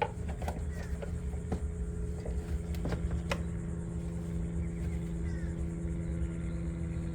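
Ford 6.0 Power Stroke V8 turbodiesel idling: a steady low rumble with a constant hum over it. A few light clicks in the first few seconds.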